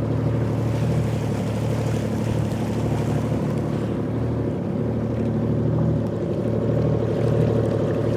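Jet ski engine running steadily at an even pitch.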